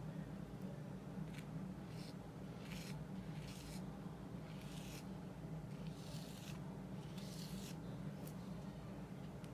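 Oil paint being brushed onto multimedia paper: a series of short, scratchy strokes, roughly one a second, over a steady low hum.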